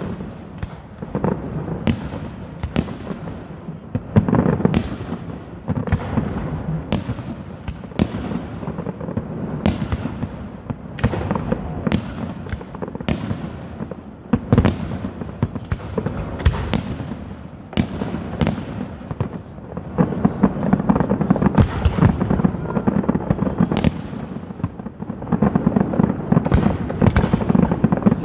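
Fireworks display: a rapid string of sharp bangs from bursting shells over a continuous crackle, growing denser and louder in the last third.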